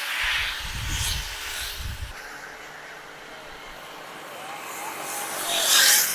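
Road noise from riding a motorcycle: wind rushing over the microphone, with heavy low buffeting in the first two seconds and a louder rush near the end.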